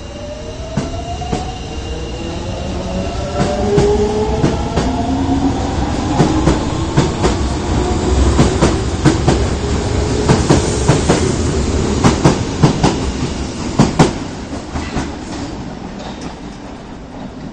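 Osaka Metro 22 series subway train pulling out of the station: its traction motors whine, rising in pitch as it gathers speed. The wheels click over rail joints ever faster, loudest about 12 to 14 seconds in as the last cars pass, then fade as the train leaves.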